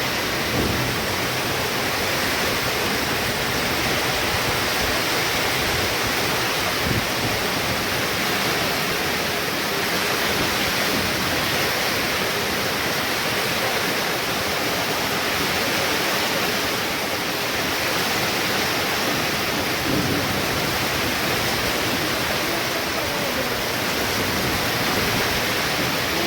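Heavy rain pouring down in a steady, dense hiss, unbroken for the whole stretch.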